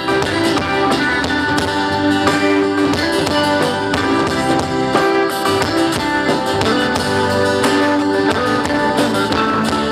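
Live band playing an instrumental passage without vocals, leading into a sung Thai song.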